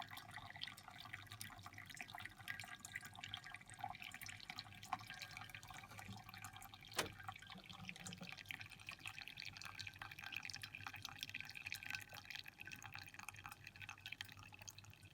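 Faint dripping and trickling of brewed coffee through a paper filter in a collapsible pour-over dripper into a cup, many small irregular drips, with one sharper click about seven seconds in.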